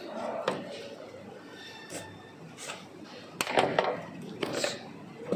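Packaging being handled and opened: a run of rustles, scrapes and sharp clicks, busiest about three and a half seconds in.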